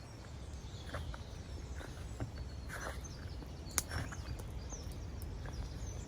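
Outdoor ambience: a steady low rumble of wind, faint bird chirps about four seconds in, a few soft rustles and one sharp click.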